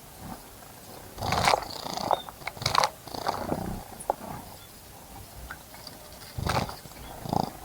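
Birds bathing in a bird bath: several short, irregular bursts of splashing water and fluttering wings.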